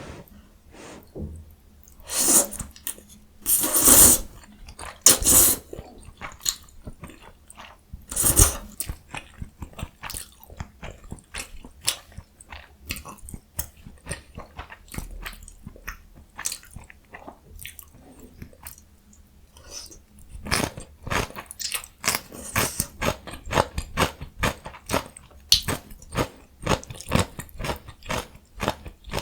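Close-miked mouth sounds of eating jjajang ramyun and young summer radish kimchi: biting, chewing and crunching. A few loud, longer bites come in the first several seconds, and the last third is a quick run of wet chewing clicks.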